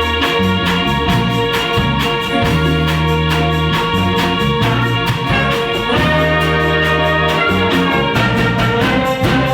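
Band rehearsing an instrumental intro: keyboard chords with organ- and brass-like sounds over long held bass notes and a steady drum beat.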